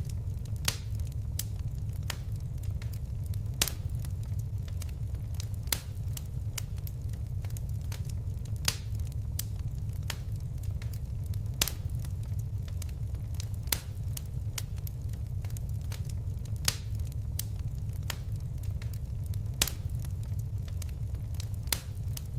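Wood fire crackling: sharp pops and snaps, a few louder ones every couple of seconds, over a steady low rumble of flames.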